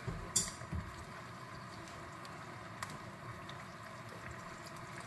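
Frozen spinach thawing in an enamel pot on a gas burner: a faint steady hiss and simmer, with a sharp click about half a second in and a smaller one near three seconds.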